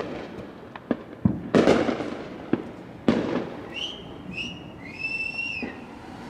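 Fireworks and firecrackers going off: a series of sharp bangs that echo, several close together in the first two seconds and a loud one about three seconds in. This is followed by a high whistling tone in three short pulses.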